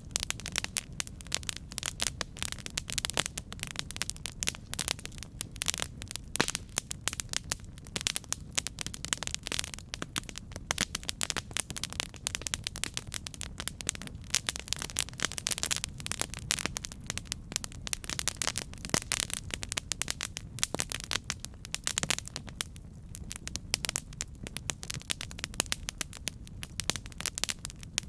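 Campfire crackling: a dense, irregular stream of sharp pops and snaps over a low, steady rumble of the burning fire.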